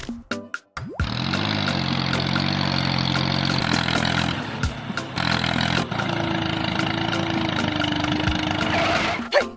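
A few clicks, then about a second in a vehicle engine sound starts and runs steadily until shortly before the end, with music behind it.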